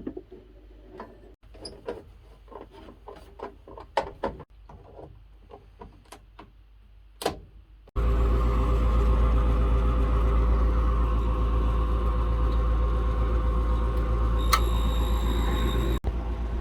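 Light clicks and knocks of parts being fitted, then about halfway through a loud, steady hum with a whine sets in suddenly: the furnace inducer blower motor running again, its sleeve bearing freshly oiled after it had seized. A single sharp click comes near the end.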